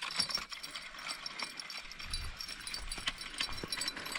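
Fishing reel clicking as a hooked catfish is reeled in: a steady run of small ratcheting clicks.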